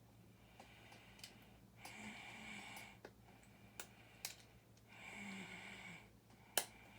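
Off-brand LEGO-style plastic bricks clicking as they are handled and pressed together: a few sharp separate clicks, the loudest near the end. Under them, slow breathing close to the microphone swells about every three seconds.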